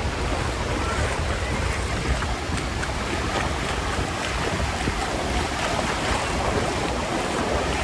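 Surf washing onto a beach, with wind rumbling on the microphone.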